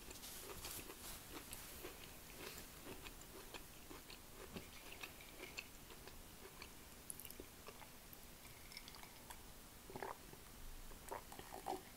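Faint chewing with the mouth closed: soft, wet mouth clicks repeating. About ten seconds in, a few swallows as she drinks.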